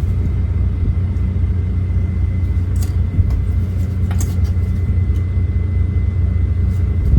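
Truck diesel engine idling: a steady low rumble with a faint steady whine over it. Two light clicks, about three and four seconds in, come from the door trim being worked.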